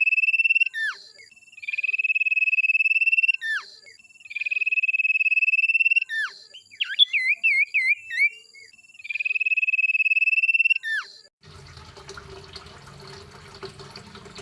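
Songbird masteran recording: long, steady, high rapid-fire trills ('tembakan'), each ending in a quick falling note. Four are repeated, with a burst of varied twisting chirps between the third and fourth. About eleven seconds in, it cuts off to a faint noisy background with a low hum.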